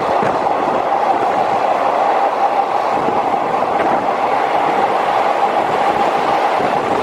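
Steady running noise of a passenger train moving at speed: wheels rolling on the rails, heard from inside the carriage at an open window.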